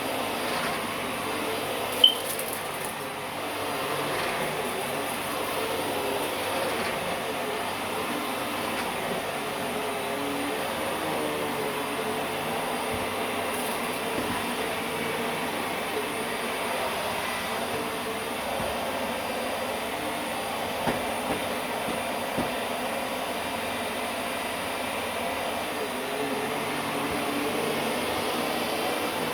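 Vacuum cleaner running steadily, with one sharp click about two seconds in and a few small knocks later on.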